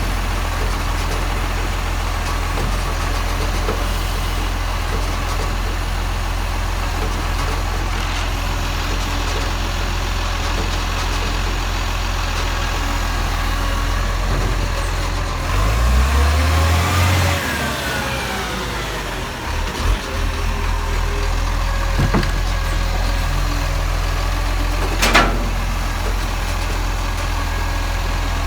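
Garbage truck's engine running steadily at idle, revving up and back down once about halfway through, with a couple of sharp knocks later on.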